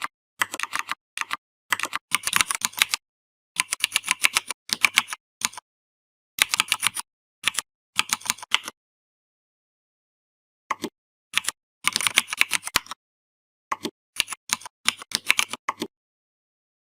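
Typing on a computer keyboard in quick bursts of keystrokes, broken by short pauses, with a longer pause of about two seconds partway through.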